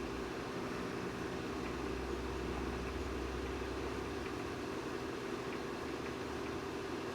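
Microwave oven running with a steady hum and fan noise.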